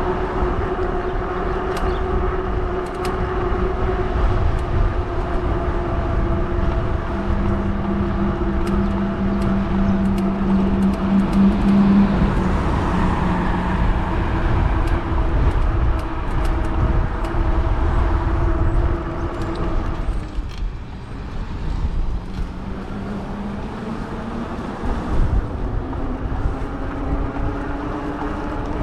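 Riding noise of a fat-tire e-bike: a steady electric motor whine over heavy wind rumble on the microphone and tyre noise. About two-thirds of the way through the whine drops away, then comes back rising slowly in pitch as the bike picks up speed again.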